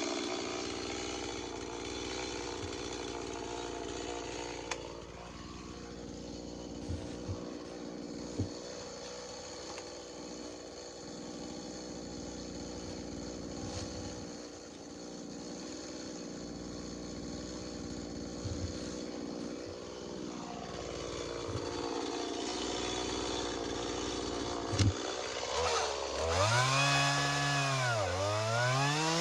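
Gas-powered Stihl two-stroke chainsaw running steadily at idle with a few sharp knocks. Near the end it is revved up and down twice.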